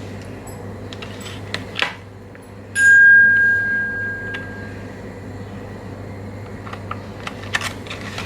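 One clear ringing tone struck suddenly about three seconds in and dying away over about two seconds, among a few light clicks and a steady low hum.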